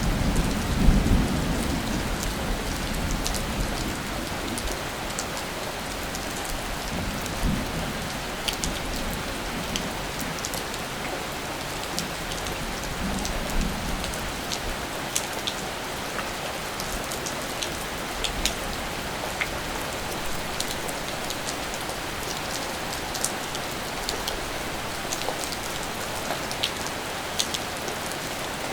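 Steady rain with sharp, separate drop ticks scattered through it. A low rumble of distant thunder in the first couple of seconds fades away.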